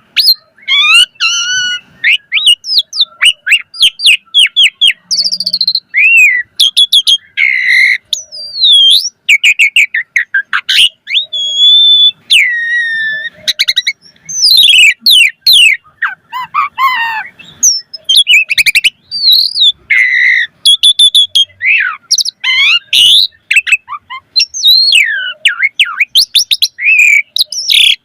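Asian pied starling (jalak suren) singing a long, varied song. It runs phrase after phrase of rising and falling whistles, rapid trills and sharp clicking notes, with only brief breaks.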